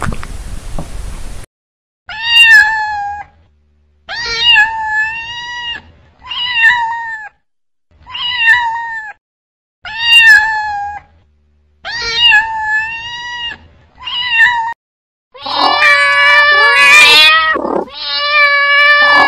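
A cat chewing food from a bowl for about a second and a half, then a cat meowing: about eight separate meows, each about a second long, with silent gaps between. Near the end come two longer, louder cat cries, like caterwauling.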